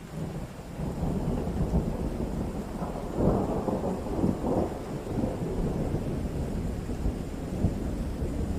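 Rolling thunder over steady rain: a low rumble swells in suddenly and peaks about three to four and a half seconds in, then keeps rolling.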